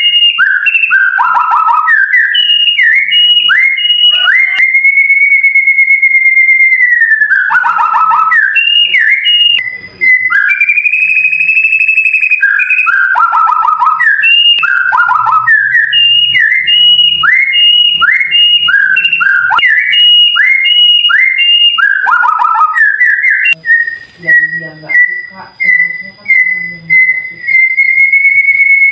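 White-rumped shama (murai batu) singing loud, clear whistled song. Runs of quick falling notes are broken by long, drawn-out whistles, and near the end comes a fast string of short repeated notes.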